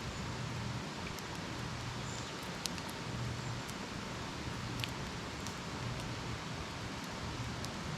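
Wood campfire burning with a steady hiss and scattered sharp crackles, a handful of pops over the few seconds.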